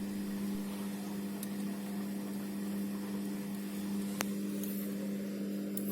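Midea 7 kg front-load washing machine in its wash cycle, the drum motor giving a steady, quiet low hum with a faint click about four seconds in.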